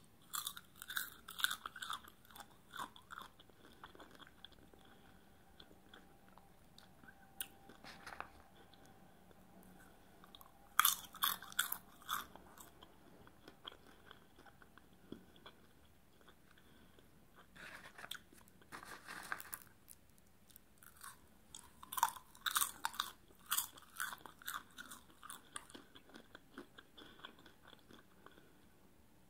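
Close-miked chewing of popcorn: crisp crunching in several bursts, one mouthful after another, with quiet pauses between.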